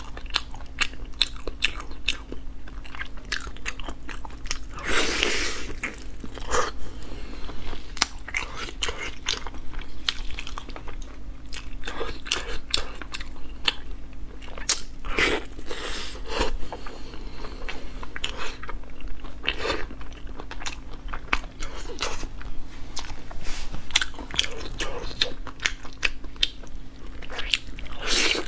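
Close-miked eating sounds: biting into and chewing a piece of glazed braised meat, a steady run of quick mouth clicks with a few louder bites along the way.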